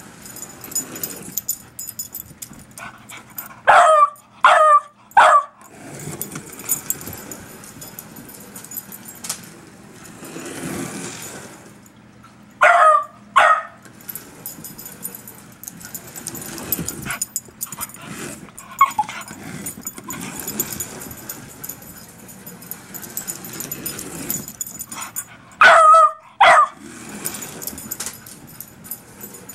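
Beagle barking at a speeding slot car: three sharp barks about four seconds in, two more around thirteen seconds, and another two or three near the end. Between the barks, a faint high whir with small clicks runs on, the slot car's electric motor on the track.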